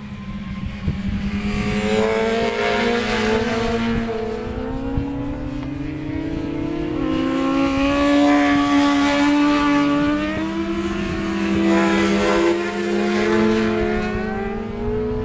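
Racing motorcycle engine revving hard around the circuit, its pitch rising and falling several times as it accelerates and shifts, with wind buffeting on the microphone.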